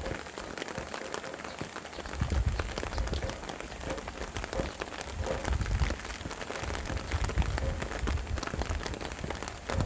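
Steady rain pattering, with gusts of wind rumbling low that rise and fall every few seconds.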